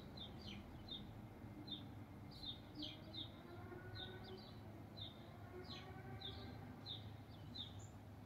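A small bird chirping: short, high chirps repeated steadily, about two or three a second, over a faint low background rumble.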